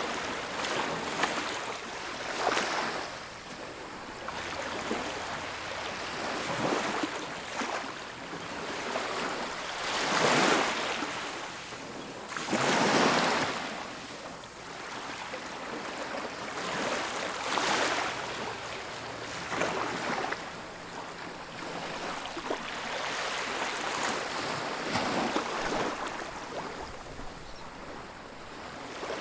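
Ocean waves breaking and washing on a beach, with surges that rise and fall every few seconds, two of them louder about ten and thirteen seconds in. Some wind noise mixed in.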